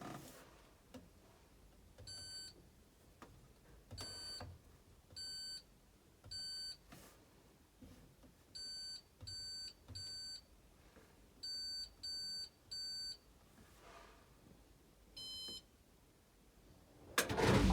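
Washing machine control panel beeping as buttons are pressed: about eleven short electronic beeps at one steady pitch, several in quick groups of three, then one beep at a different, higher pitch near the end. Faint clicks sound between the beeps, and a louder noise starts suddenly just before the end.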